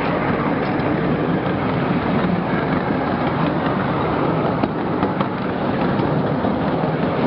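Steady rumble and rattle of a 12-inch gauge riding train rolling along its track, heard from one of its metal passenger cars, with a few faint clicks.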